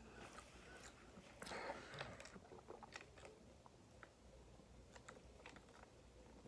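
Faint chewing and mouth clicks from a person eating fast food, scattered soft ticks over near silence, a little louder for a moment about one and a half seconds in.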